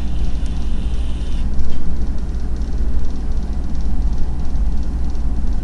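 A deep, steady rumble like a vehicle engine, heavy in the bass, playing as the soundtrack of a rendered car animation.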